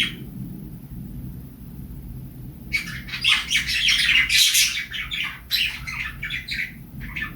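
Small pet parrots chirping and squawking: a dense, loud flurry of rapid calls starts about three seconds in and runs for a few seconds, with a last short burst near the end. A low steady rumble sits underneath, most plainly before the calls begin.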